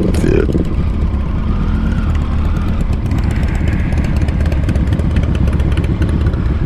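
Triumph Tiger three-cylinder motorcycle engine running steadily while riding, with wind noise on the camera microphone.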